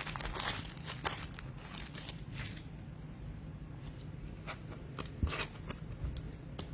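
Trading cards being handled and flipped through one by one: soft swishes and light clicks at irregular moments, over a faint low hum.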